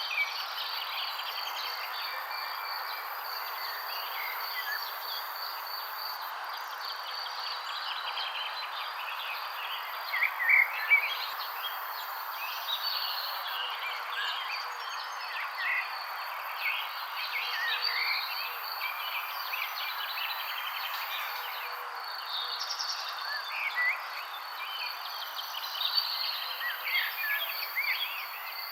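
Many small birds chirping and twittering in short, scattered calls over a steady high insect trill and a constant background hiss. A few louder chirps come about ten seconds in.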